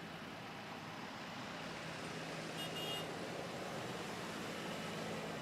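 Tractor engines running steadily as a column of tractors passes, a low even rumble, with a short high-pitched whistle-like tone about three seconds in.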